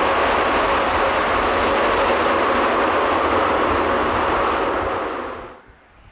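Jet engines of a landing Boeing 787-10 airliner: a loud, steady roar with faint steady whining tones, cut off abruptly about five and a half seconds in, leaving a much quieter low rumble.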